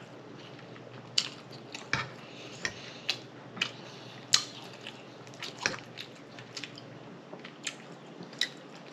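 Eating sounds: wet chewing with sharp lip smacks and mouth clicks coming irregularly, about once or twice a second, most likely from a mouthful of macaroni.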